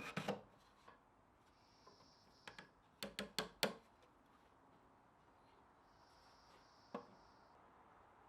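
Wooden pieces knocking and tapping together as they are handled: a cluster of sharp knocks at the start, a quick run of four about three seconds in, and a single knock near the end.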